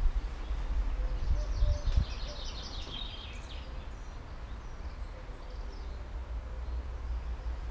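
A small bird singing a quick run of short, high chirping notes for about two seconds, starting about a second in. Under it runs a steady low rumble of wind on the microphone, and there are a few soft thumps in the first two seconds.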